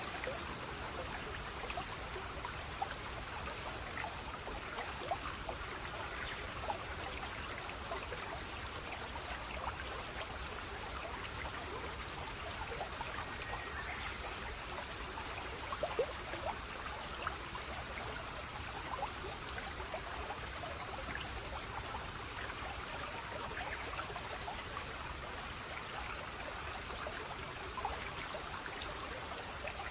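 Small stream of water trickling and babbling steadily over stones, with scattered little splashes and drips.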